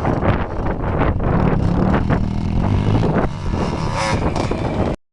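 Dirt bike engine revving, with gusts of wind on the microphone; the sound cuts off abruptly about five seconds in.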